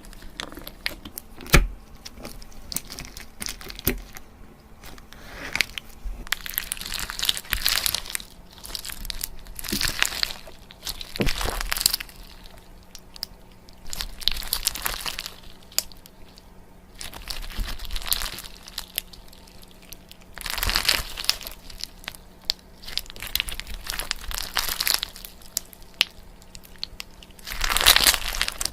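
Close-up crinkling and crunching, like material being handled and squeezed, coming in bursts every couple of seconds with a few sharp clicks among them. A faint steady hum lies underneath.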